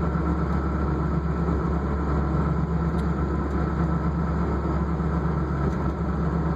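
Steady car engine and road hum heard from inside the cabin of a moving car with the windows rolled up.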